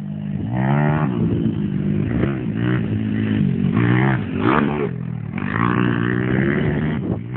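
Small pit bike engine revving up and down in repeated surges.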